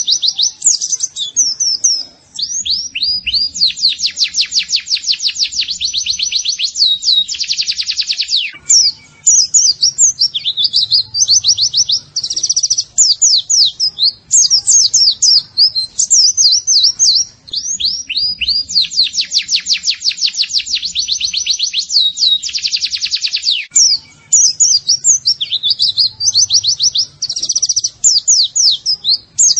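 Oriental white-eye (pleci) song on a training recording. It has rapid high chirps and sweeping notes, broken by long fast trills. The same passage repeats about every 16 seconds, as a loop.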